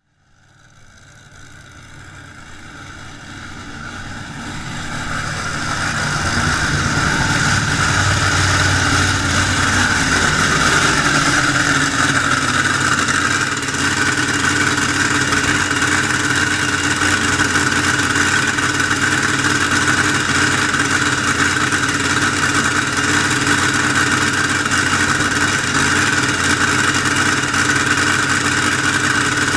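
Drag boat engine idling, a steady even drone that fades in over the first few seconds and then holds level without revving.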